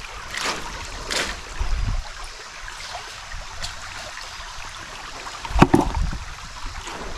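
Creek water flowing, with a few splashing steps of someone wading through it; the loudest splashes come about five and a half seconds in.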